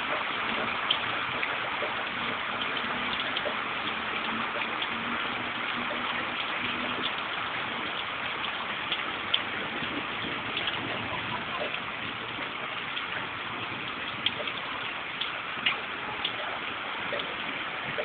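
Thunderstorm rain falling steadily, with scattered sharp taps of single drops striking a surface.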